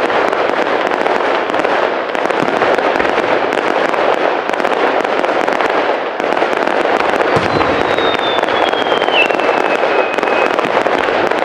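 Aerial fireworks: a dense, continuous crackle of many small bursts, with a few low booms. About seven seconds in, a high whistle slides down in pitch for about three seconds.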